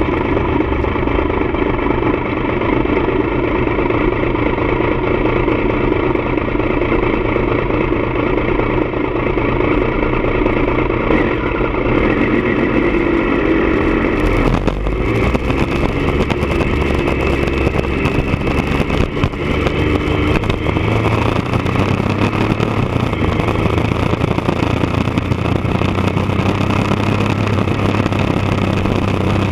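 1999 Triumph Daytona 955i's inline three-cylinder engine running through a D&D aftermarket exhaust. About halfway through a low rumble and a broad hiss come in, and near the end the engine note climbs slowly in pitch.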